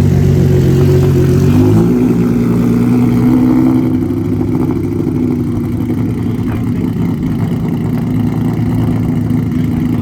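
Straight-piped Ferrari F50's V12 running loud and steady. Its revs drop about two seconds in, and it settles into an even, lower-pitched run near idle.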